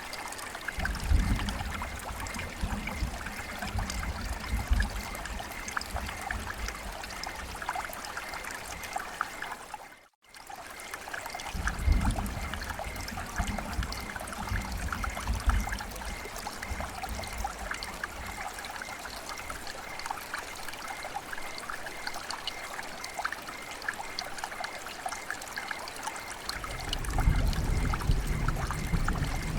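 Flowing water trickling and splashing steadily. Low rumbles swell in three times, and the sound cuts out briefly about ten seconds in.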